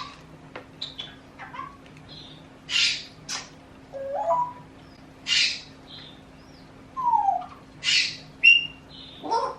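Cockatiel making short chirps and chatter: a handful of brief noisy calls with a few short gliding notes, one rising and one falling, scattered among them.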